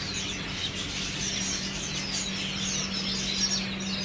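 A flock of small caged market birds chirping and twittering all at once, many quick high calls overlapping, over a steady low hum.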